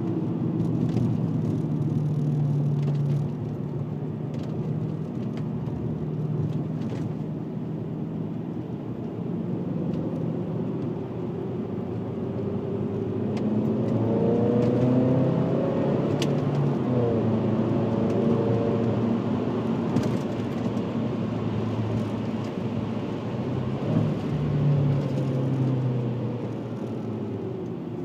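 VW Passat W8's W8 engine running through a custom stainless exhaust with twin rear mufflers while driving. The engine note rises and falls and gets louder about halfway through, then settles to a steadier cruise.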